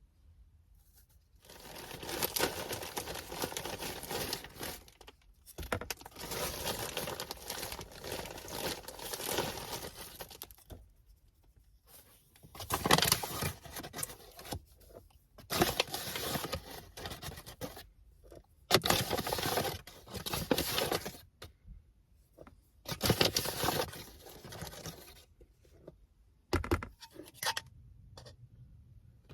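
Ingredients and packaging being handled for baking: about seven bursts of rustling and scraping, each lasting one to five seconds, with short quiet gaps between them.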